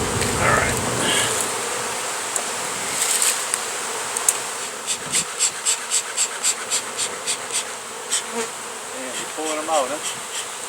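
Honey bee colony buzzing steadily as it is disturbed in its tire nest. About halfway through there is a run of even, sharp taps, roughly three a second, lasting a few seconds.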